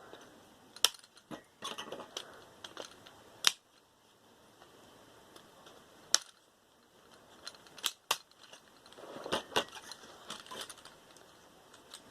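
Scattered sharp clicks and light clatter of small hard parts and hand tools being picked up and handled, with soft rustling in between.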